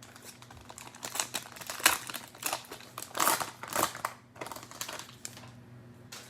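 Cellophane wrapper of a Panini Mosaic football cello pack crinkling in the hands as the pack is opened, in irregular crackles that thin out near the end.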